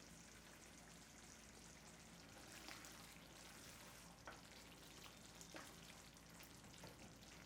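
Faint sizzling of food frying in oil in a pan, with a few light clicks.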